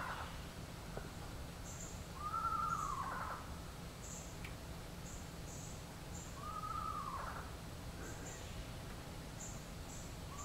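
An unidentified animal, bird or mammal, giving a drawn-out cry that rises and then falls in pitch, about a second long and repeated roughly every four seconds. Faint, short high chirps sound in the background.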